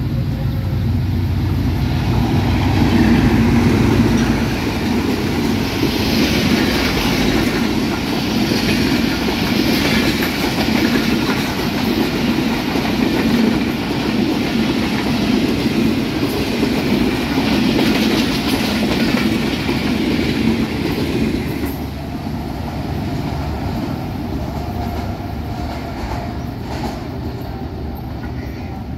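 Passenger express train running through without stopping, its AGE 30 diesel locomotive passing loudly in the first few seconds, then the coaches clattering over the rail joints. The sound eases off after about 22 seconds as the train draws away.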